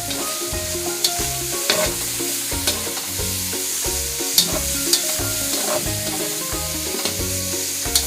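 Shredded chicken with garlic and onion frying in a pan, sizzling steadily as it is stirred. A utensil clicks sharply against the pan several times.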